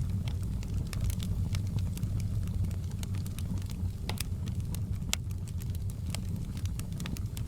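Wood fire burning in a fireplace, crackling with frequent sharp pops, a couple of louder ones about four and five seconds in, over a steady low rumble of the flames.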